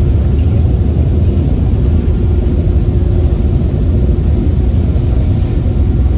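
Steady low rumble of a passenger ferry's engines underway, with a faint hum that fades out about four and a half seconds in.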